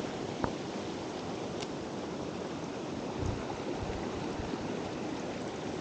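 Mountain stream flowing, a steady rush of water, with a couple of light clicks in the first two seconds.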